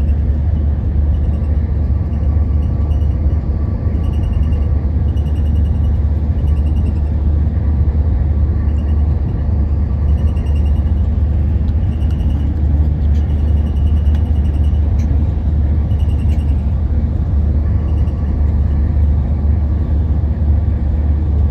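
Passenger train running at speed, heard from inside the coach: a steady low rumble of wheels on rail, with short high chirps that come and go every second or two.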